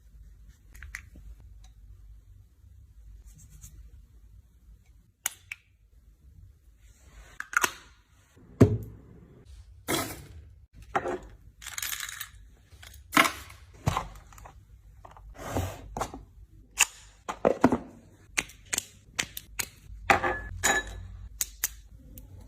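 Household items being handled and put away while organising storage: a string of sharp clicks, taps and short rustles. They are sparse for the first few seconds, then come thick and fast, with a heavier knock about eight and a half seconds in.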